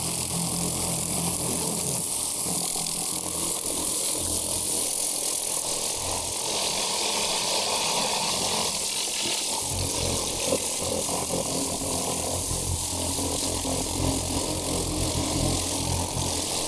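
Electric pressure washer running: a steady hiss of water spray over the hum of its pump motor. The spray hiss grows louder about six seconds in.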